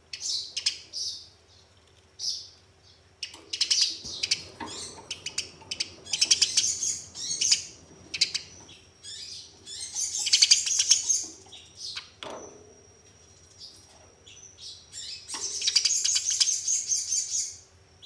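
Eurasian tree sparrow chirping and breaking into rapid, rattling chatter in several runs of a second or two, the agitated 'fighting' call used as a lure to get caged sparrows singing.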